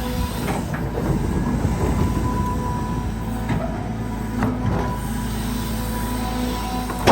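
Caterpillar 320GX excavator's Cat C4.4 four-cylinder diesel working under load, with a steady hydraulic pump whine. The bucket scrapes and knocks now and then as it digs through hard laterite soil, with a loud knock at the very end.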